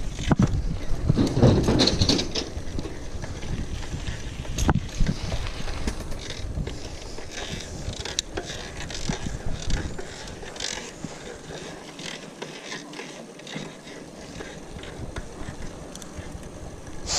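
Mountain bike rolling along a dirt trail: tyres rumbling and the frame rattling over bumps, with the ratcheting tick of the rear freewheel hub while coasting. The rumble is heaviest near the start and eases off after about ten seconds.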